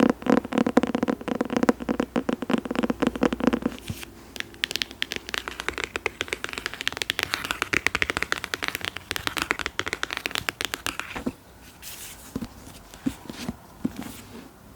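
Rapid ASMR tapping and scratching on an object: a quick run of heavier, fuller taps for the first few seconds, then a fast, brighter scratching through the middle, thinning to a few scattered taps near the end.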